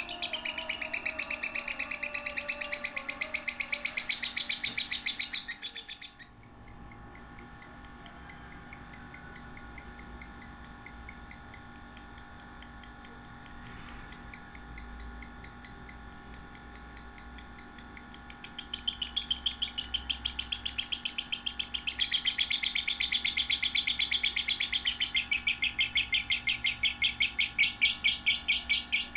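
Lovebird song: long runs of rapid, shrill chattering chirps, pulsing at about two beats a second, changing character abruptly a few times.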